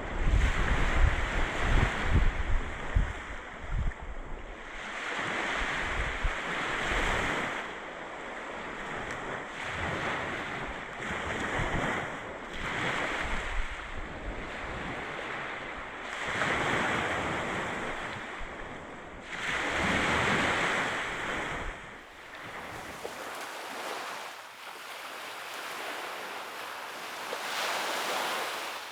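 Sea waves breaking and washing up a beach, one swell of surf every three to four seconds. Gusts of wind buffet the microphone with a low rumble over the first several seconds.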